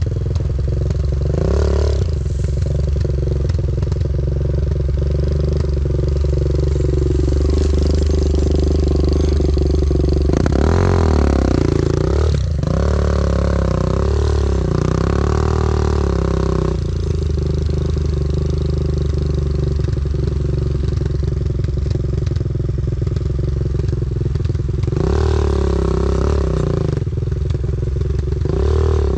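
Enduro motorcycle engine running under load, with the revs climbing and dropping about a third of the way in and twice more near the end.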